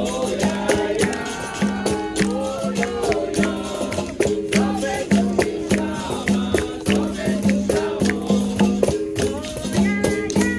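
Capoeira roda music: a berimbau and a pandeiro playing a steady, repeating rhythm while a group of voices sings along.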